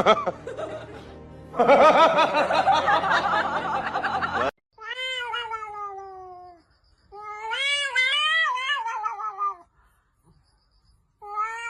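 A cat yowling in three long, drawn-out calls that waver in pitch, the first sliding downward, with short pauses between them. Before the calls there are about three seconds of louder, fuller sound.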